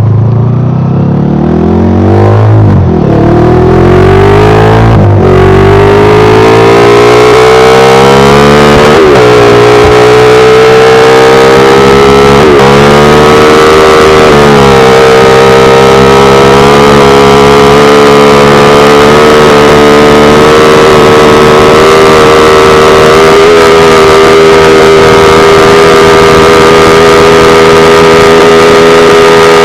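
Honda Sonic's single-cylinder four-stroke motorcycle engine at full throttle, accelerating hard through the gears. The pitch climbs and drops at a shift about 2.5, 5, 9 and 12.5 seconds in, then holds steady and high at top speed.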